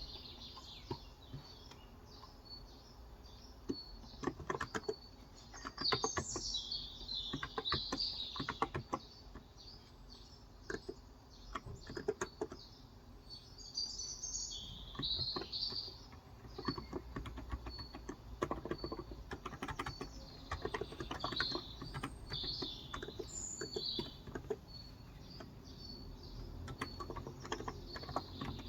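Typing on a Cox Endeavor electro-capacitive (Topre-style) 35 g tenkeyless keyboard, irregular runs of soft keystrokes with short pauses, mostly in the middle of the stretch. Small birds chirp outside throughout.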